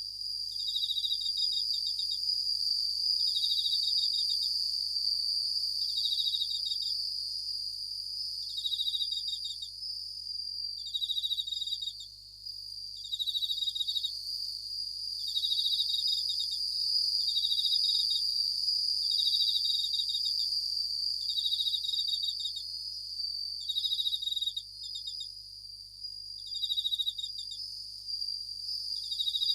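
Japanese bell crickets (suzumushi) singing: short pulsed high chirps repeating about every one to two seconds over a continuous high, steady insect ringing.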